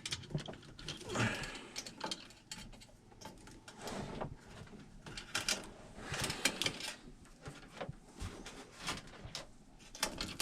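Scattered, irregular clicks, knocks and brief rustles of tools or parts being handled.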